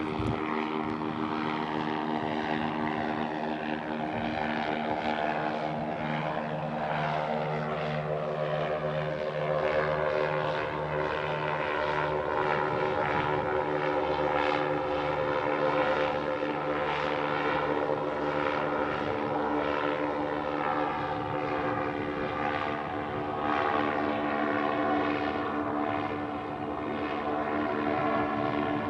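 Steady drone of the American Blimp A60R's two Rotax 912 piston engines and propellers, with its upper tones slowly shifting as the airship moves.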